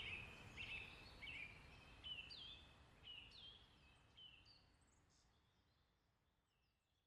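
A bird calling: a series of short chirps, each dropping in pitch, repeated every half second or so over faint outdoor hiss, the whole fading away.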